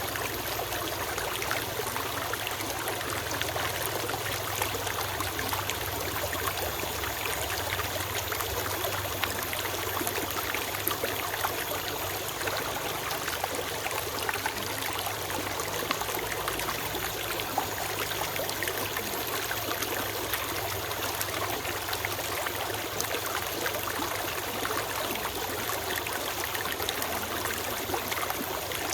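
Small forest stream flowing and trickling steadily over stones, a continuous splashing babble.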